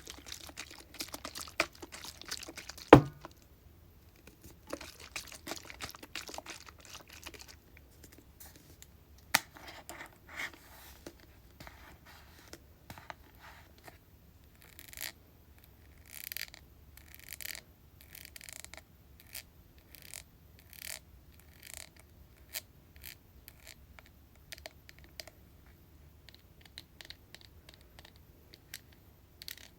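Tapping on hair-product containers: a quick patter of taps, one loud knock about three seconds in, then slower single taps about one or two a second.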